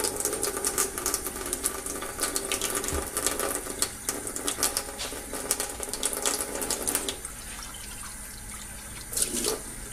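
Just-boiled water poured into a glass bowl holding baking soda, aluminium foil and a silver mug for about seven seconds, then stopping, leaving faint ticks.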